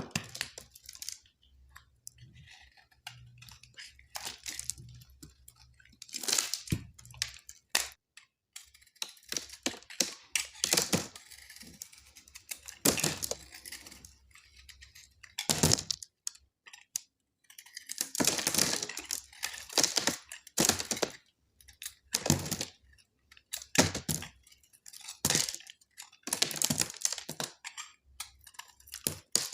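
Blade cutting through dry soap: a string of crisp cracks and crunches as the soap breaks apart, with a few longer scraping cuts in between.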